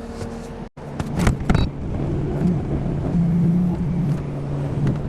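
A vehicle engine running steadily at a low pitch as the RV is moved. A few sharp knocks come about a second in.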